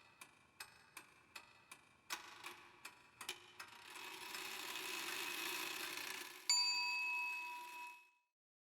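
Clock-like ticking, about three ticks a second, gives way to a hiss that swells and then ends on a single bright bell ding that rings for about a second and a half before fading out. It has the sound of an edited intro sound effect rather than the fire itself.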